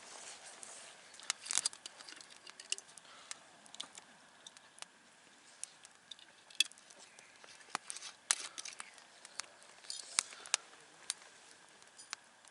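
Wood campfire crackling: irregular sharp snaps and pops of burning wood over a faint steady hiss.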